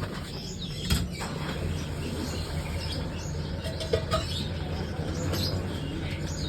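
Small birds chirping and fluttering their wings, over a steady low hum, with sharp knocks about a second in and again about four seconds in.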